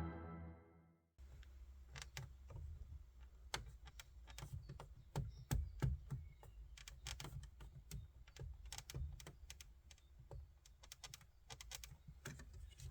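Faint, irregular clicks and ticks from the plastic parts of an Audi A6 C7's radio and dash trim, over a steady low hum.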